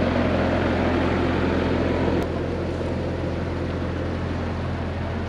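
A Jeep's engine running steadily with a low, even hum. There is a click about two seconds in, after which it runs slightly quieter.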